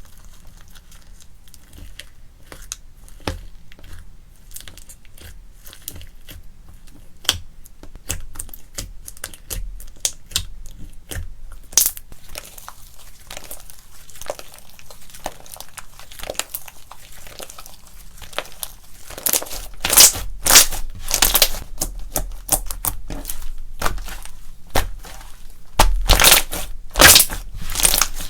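Slime being squeezed and worked by hand, making crackling, clicking pops. The pops grow denser and louder about two-thirds of the way in.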